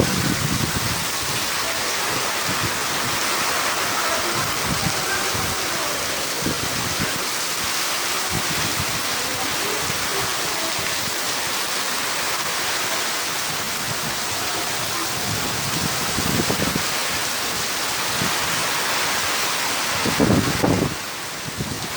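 Heavy rain falling steadily in a windy downpour, with low rumbling gusts of wind that surge about two-thirds of the way through and again near the end.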